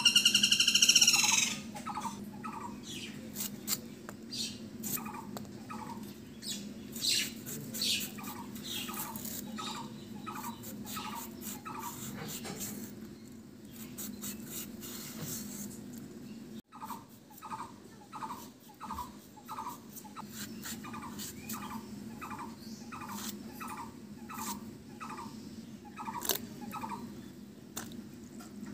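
A bird calls over and over in runs of short notes, about two a second. Under the calls come sharp clicks of raw green banana being sliced on a boti blade.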